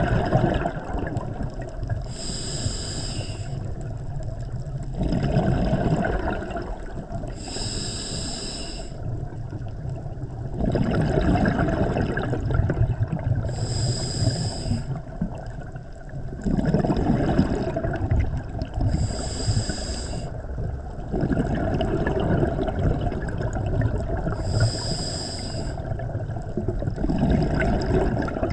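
Scuba diver breathing through a regulator underwater. Each breath gives a short hiss from the demand valve on the inhale, then a longer burst of exhaled bubbles rumbling out. About five breaths, one every five to six seconds.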